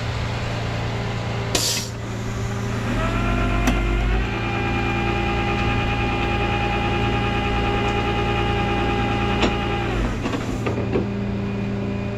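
Rollback tow truck's diesel engine running while its hydraulics are worked. About three seconds in, the engine rises and a whine climbs in pitch, then holds steady until near the end before stopping. A short hiss comes just before it.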